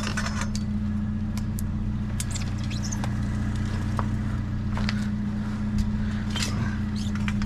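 Vehicle engine idling steadily with a low hum, with scattered light clicks and rattles from things being handled nearby.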